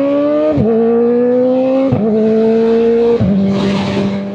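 Kawasaki Ninja ZX-4RR's 399 cc inline-four accelerating under moderate throttle. Its note climbs and drops sharply three times as it upshifts with the quick shifter, then holds steady. A short burst of hiss comes near the end.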